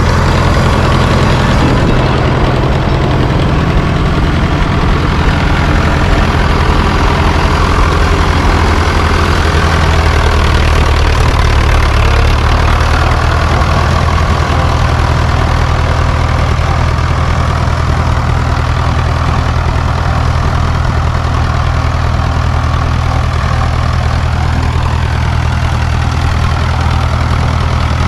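A 1954 Fordson tractor's engine idling steadily after being revived from long storage. Its note changes slightly about ten seconds in.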